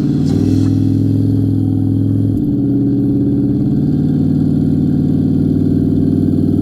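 Vehicle engine running while driving, a steady note that steps to a new pitch twice, about half a second in and again a little after two seconds.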